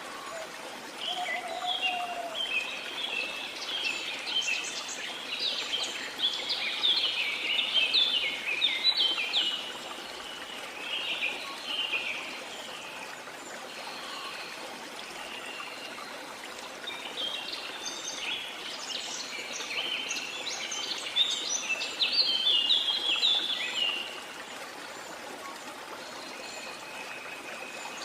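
Rainforest ambience: a steady rush of falling water under birdsong, which comes in two long bouts of rapid, overlapping chirps and whistled notes, the first starting about a second in and the second starting just past the middle.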